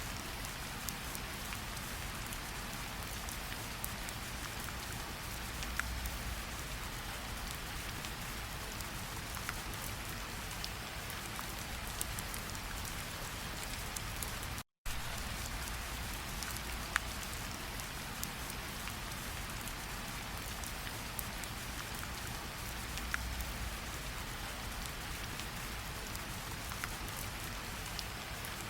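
Steady rain falling, with scattered individual drops ticking sharply through it. The sound cuts out completely for a split second about halfway through.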